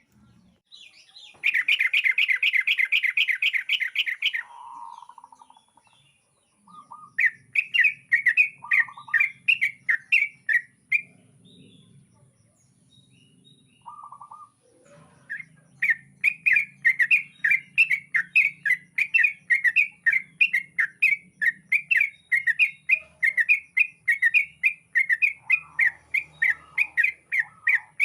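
Yellow-vented bulbul (trucukan) calling: a fast chattering run of notes near the start, then broken bursts of short, repeated chirps, and from about halfway on a long, steady series of them, several a second.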